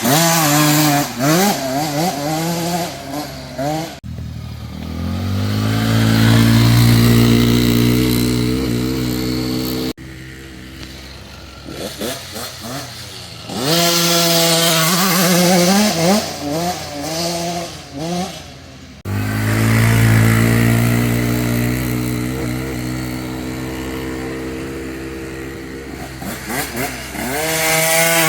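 Dirt bike engine accelerating hard, its pitch climbing and dropping again and again as it shifts through the gears, with stretches held at a steady high pitch. The sound breaks off abruptly three times where one riding shot cuts to the next.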